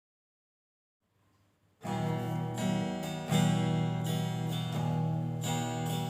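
Dead silence for nearly two seconds, then an acoustic guitar comes in, strumming a run of chords with a fresh stroke every half-second or so.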